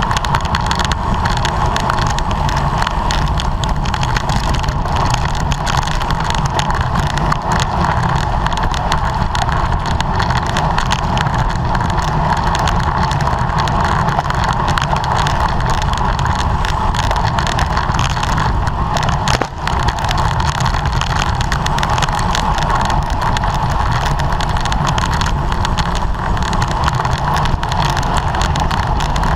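Steady rushing wind and road noise from a road bicycle ridden at race speed, with a continuous low rumble and wind on the microphone.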